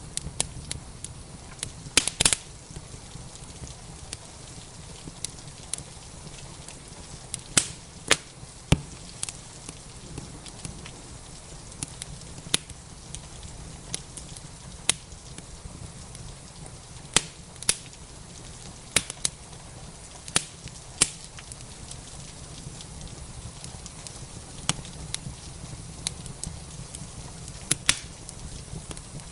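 Wood fire crackling in a fireplace: irregular sharp pops and snaps, some much louder than others, over a steady low hiss.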